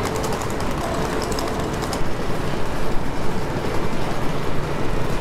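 Passenger train running along the rails: a steady noise with faint rapid clicking in the first two seconds, becoming louder and more uneven about two seconds in.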